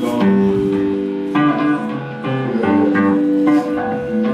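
Guitar playing: a few ringing notes and chords picked out one after another, each left to sustain.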